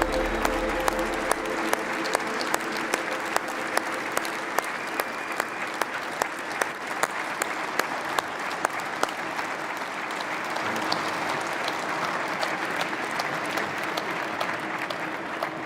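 Audience applauding steadily, with some louder individual claps standing out. Music fades out in the first second or so.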